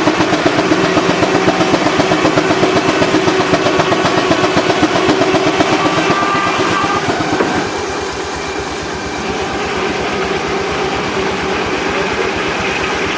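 An engine running with a fast, even beat and a steady hum. It drops somewhat in level about eight seconds in.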